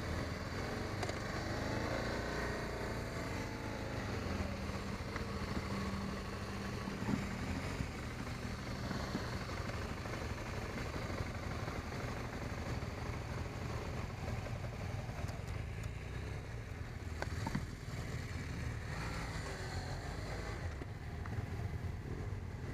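BMW 650 GS motorcycle running under way, its engine note rising and falling with the throttle in the first few seconds, then steady, over road and wind noise.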